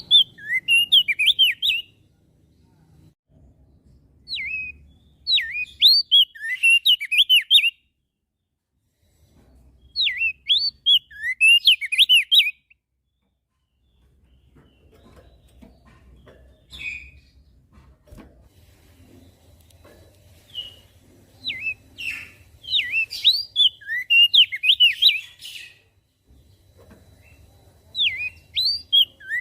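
Crested white-eye (opior jambul) singing: bursts of fast, jumpy whistled notes a few seconds long, repeated about five times with short pauses between them.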